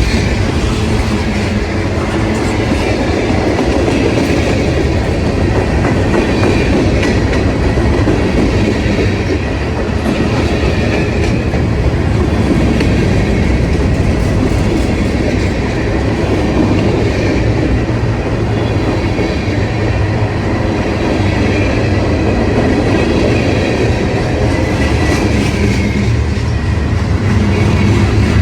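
A train rolling past: a steady, loud noise of railcar wheels on the rails, with clickety-clack over the rail joints.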